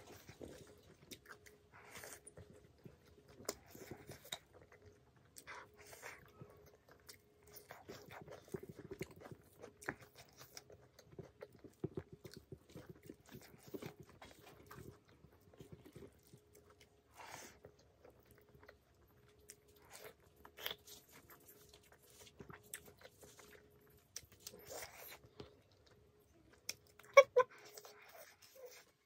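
Close-up chewing of dry pork curry, rice and raw greens eaten by hand: irregular crunches and soft wet mouth sounds. A louder sharp mouth sound comes near the end, under a faint steady hum.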